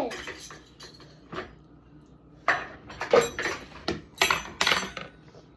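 Cutlery knocking and clinking against dishes: a string of sharp, separate clinks, a few of them ringing briefly, coming faster in the second half.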